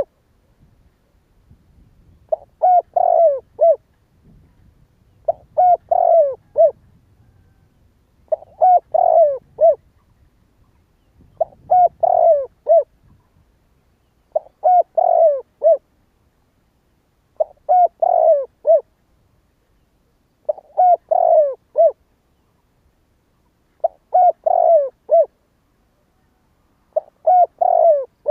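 Spotted dove cooing: a phrase of a few short coos about a second long, repeated nine times at an even pace of about one every three seconds.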